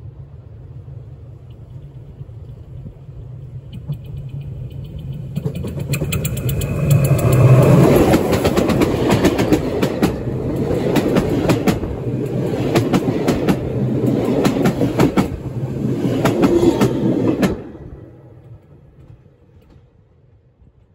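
A heritage passenger train rolls right over the track-level microphone. Its rumble builds as it comes in, then the wheels clack rapidly over the rails as the carriages pass above. The clatter cuts off suddenly about three-quarters of the way through, leaving a fading rumble.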